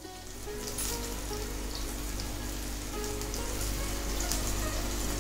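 Brinjal wedges shallow-frying in hot oil in a nonstick kadhai, a dense steady sizzle and crackle that grows louder over the first second.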